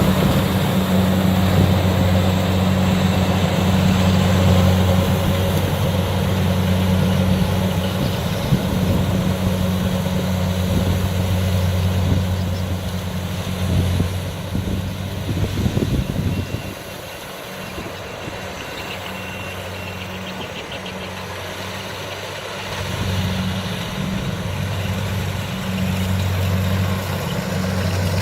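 Kubota DC60 combine harvester's diesel engine running steadily with a low hum while it works in the rice field. The sound falls away for several seconds past the middle, then grows louder again.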